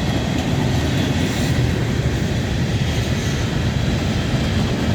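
CSX manifest freight train's cars rolling past: a steady noise of steel wheels on the rails, with no rhythm of clicks standing out.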